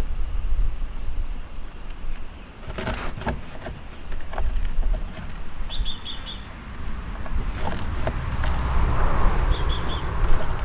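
Crickets trilling steadily in several high, pulsing tones, over a low wind rumble on the microphone. A few sharp knocks come about three seconds in.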